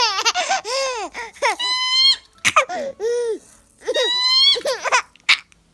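A baby laughing in repeated bursts of giggles and belly laughs. A high, level-pitched squeal of about half a second comes back roughly every two seconds between the laughs.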